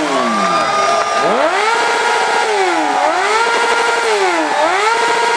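Stunt motorcycle engine revving hard over and over: the revs climb, hold high for about half a second to a second, then drop, three times in a row.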